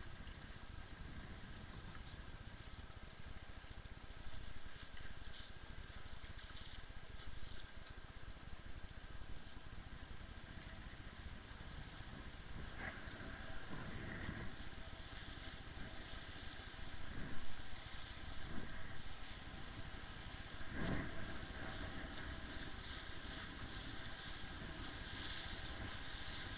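Motorboat engine running steadily at low revs, with a few faint knocks along the way.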